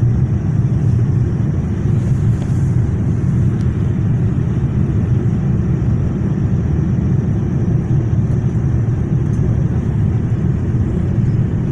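Steady low rumble of cabin noise inside a Boeing 787 on the ground just after landing.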